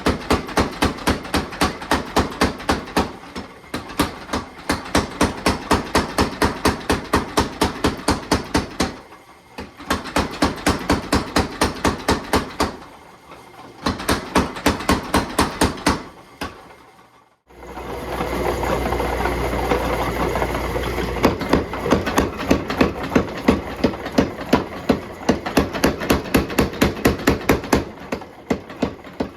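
Hammer blows on hot steel bar stock at the anvil, a rapid even series of about three strikes a second in runs with short pauses between heats or repositioning. About halfway through the strikes stop briefly, then resume over a few seconds of steady rushing noise.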